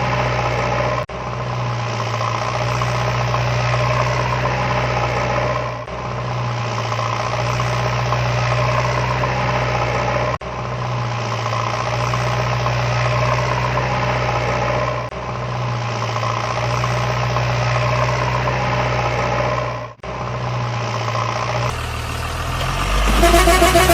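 Engine idling steadily, with short cuts about every five seconds, like a looped recording. Near the end it changes and higher tones come in.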